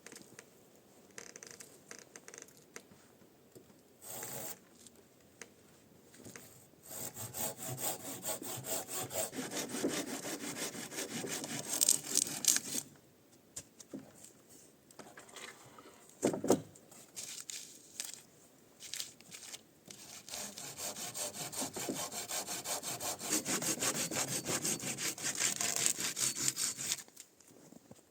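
A hand saw cutting through wood in fast, even strokes. There are two long bouts of sawing with a pause between them, and a single knock during the pause.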